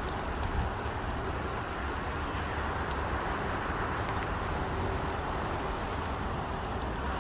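Steady hum of distant road traffic: a continuous low rumble under an even hiss, with no single vehicle standing out.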